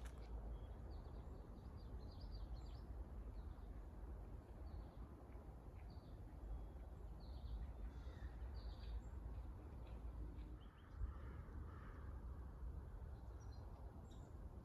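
Birds chirping: many short, scattered calls over a steady low rumble of outdoor background noise.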